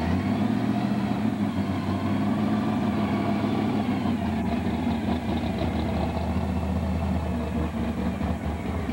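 1960s Chevy II Nova's engine idling, low and steady, as the car rolls slowly past.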